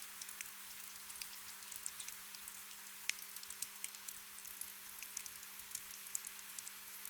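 Gentle rain: a soft steady hiss with scattered individual drops ticking and pattering, over a faint steady low hum.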